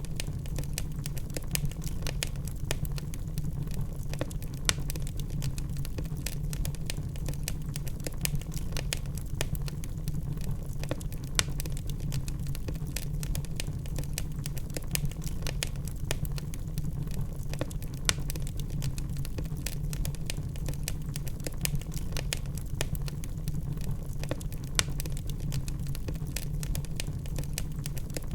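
Wood fire of burning logs crackling, with a dense run of small snaps over a steady low rumble and a few louder pops spaced several seconds apart.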